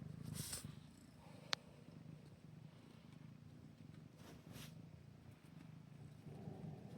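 Kitten purring softly, a faint low steady purr, with a couple of brief soft rustles and one sharp click about a second and a half in.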